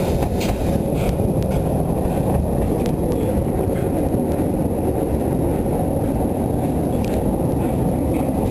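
750 mm narrow-gauge train running along the track, heard from on board: a loud, steady rumble with a few light clicks.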